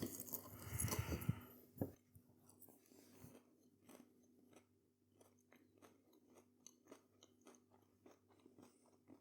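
Close-up chewing of a mouthful of breaded, southern-fried meat-free fillet: louder for the first second and a half, then faint, irregular crunches of the coating.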